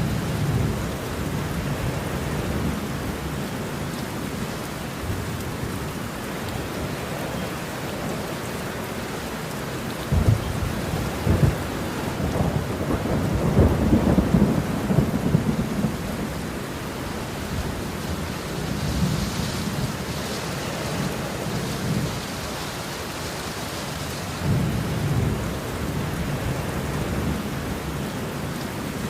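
Steady heavy rain with rolling thunder: a sharp crack about a third of the way in, followed by a long rumble that swells and fades, then further rumbles later on.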